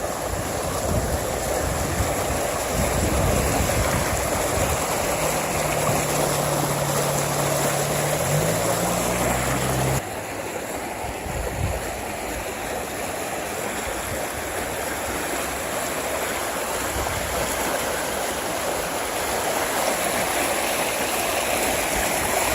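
Storm-swollen water running steadily down a drainage ditch, a continuous rushing stream sound. A low steady hum sits under it for a few seconds near the middle, and the level drops a little about ten seconds in.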